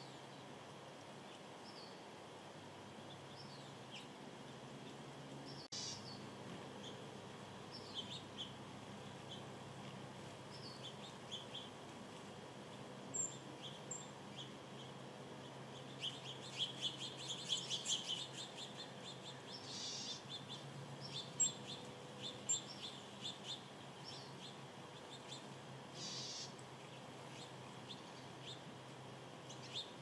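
Small birds chirping in short, scattered high calls, with a quick run of chirps about halfway through, over faint steady background noise.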